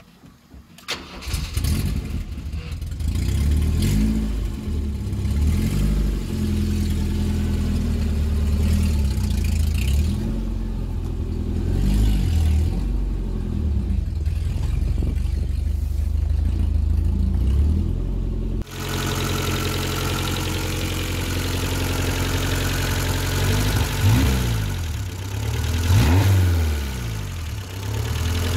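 BMW E28's M20 straight-six engine catching about a second in, then running at an uneven idle with its revs rising and falling several times. About two-thirds of the way through, the sound changes abruptly to the engine heard at the open engine bay, with more hiss and clatter.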